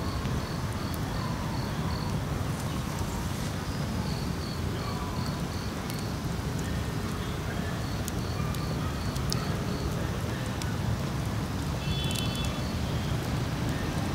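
An insect chirping in quick, regular high pulses, about four a second in runs, over a steady low rumble.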